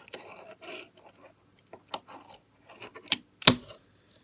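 A Tech Deck fingerboard clicking and knocking against a hard surface as it is ridden with the fingers, in scattered small clacks; the loudest knock comes about three and a half seconds in.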